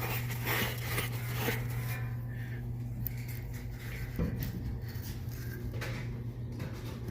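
Steady low electrical or machine hum, with scattered light clicks and knocks of objects being handled; one knock is a little louder about four seconds in.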